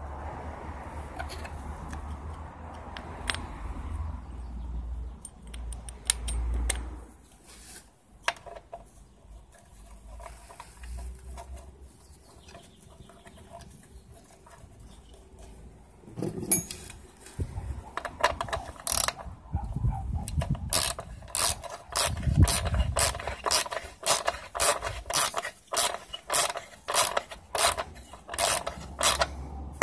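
Ratcheting hand tool clicking in a steady run of about two clicks a second through the second half, while a screw is worked into a freshly re-tapped thread. Before that, scattered knocks of metal parts being handled over a low hum.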